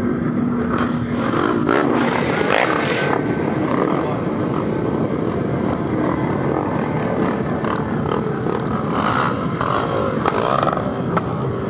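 A crowd of off-road trail motorcycles running together, with individual bikes revving up and down over the din, most clearly about two seconds in and again around nine to ten seconds.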